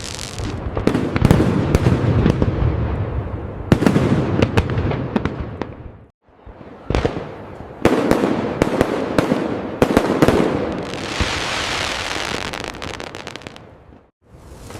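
Aerial fireworks bursting: several deep booms with rumbling tails, sharp cracks, and a stretch of dense crackling in the second half. The sound fades out briefly about six seconds in and again near the end before the next salvo.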